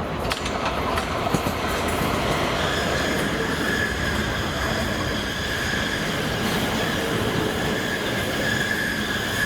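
A train running along the rails with a steady rumble and a few clicks in the first moment. From about two and a half seconds in, a steady high-pitched wheel squeal sits over the rumble.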